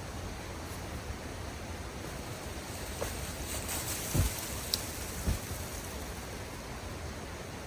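Steady rushing of a creek, with two dull thumps about four and five seconds in and a sharp click between them.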